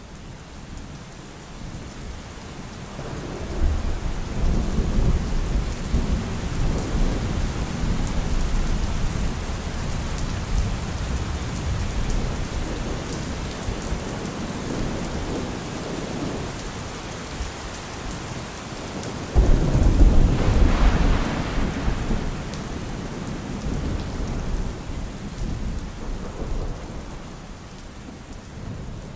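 Steady rain with rolling thunder: a long low rumble builds a few seconds in, then a sudden, louder thunderclap about two-thirds of the way through rumbles away.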